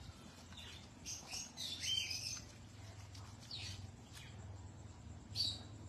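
Birds chirping in short high calls, the busiest cluster about two seconds in and a few single chirps later, over a faint steady low hum.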